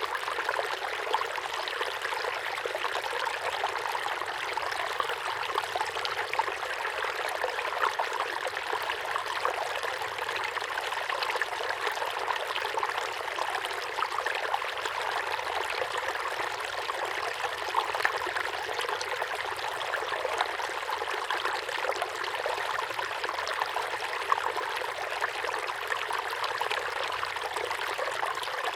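Small waterfall pouring steadily into a pond: a continuous splashing rush of water with small flickering splashes.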